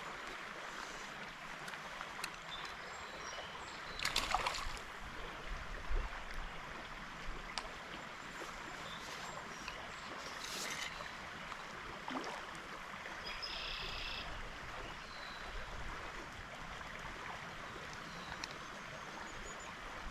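Water of a small trout stream running steadily, with a few brief splashes or knocks.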